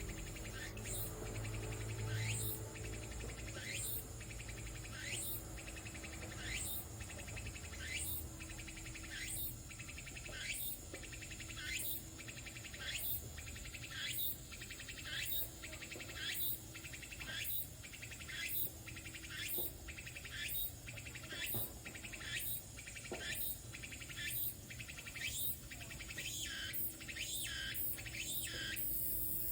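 A lone cicada calling: a repeated rising, sweeping call, a little more than one a second, the calls coming quicker and shorter near the end.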